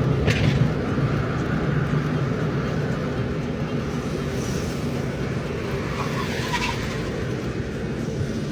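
Steady low engine rumble that slowly fades, with a few brief, faint high sounds over it.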